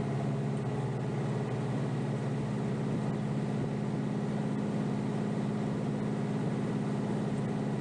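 Kioti DK5320SE subcompact tractor's diesel engine running steadily, with a thin steady high whine above the engine note.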